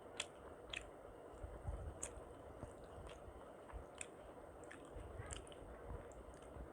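Close-miked chewing of soft, wet khichuri, with irregular short wet mouth clicks and smacks scattered through it.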